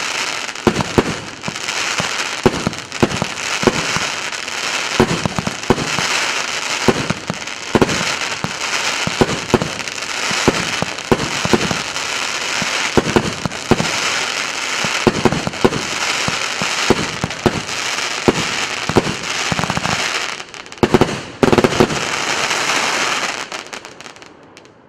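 A 150-shot, 1.2-inch consumer firework cake (РС884 'Coral Reef') firing in rapid succession: a steady stream of launch thumps and bangs over a continuous crackle. A few louder bangs come near the end, then it dies away to nothing.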